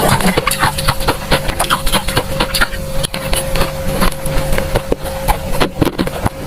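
Freezer frost being crunched, a dense run of crisp, irregular crackles over a steady hum.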